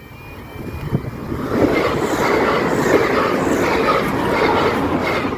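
Grand Central Class 180 diesel multiple unit passing at speed: the noise builds over the first second and a half, then holds as a loud steady rush with rail clicks, and stops abruptly near the end.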